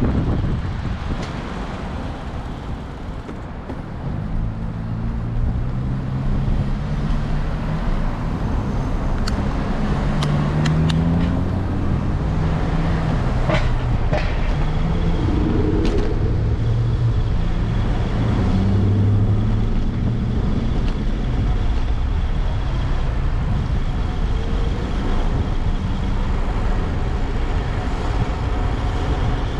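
City street traffic: engines of passing cars and heavier vehicles running, over steady road rumble. The engine hum builds about four seconds in, with a few sharp clicks midway.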